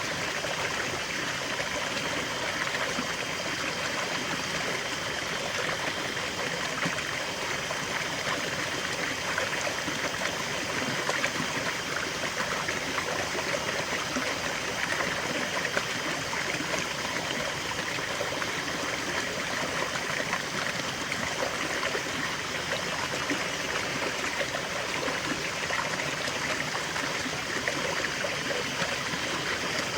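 River water flowing steadily over stones, a continuous rushing with small splashes and trickles.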